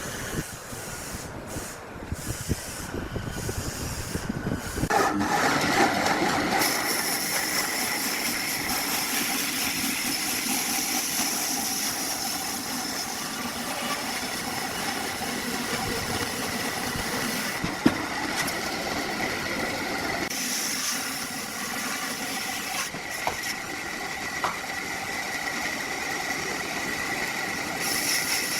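Machinery running steadily with a hiss and a high whine. It grows louder about five seconds in, and there is one sharp click about two-thirds of the way through.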